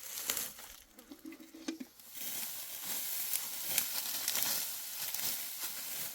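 Dry wheat stalks rustling and crackling as they are cut and handled, growing denser and louder from about two seconds in.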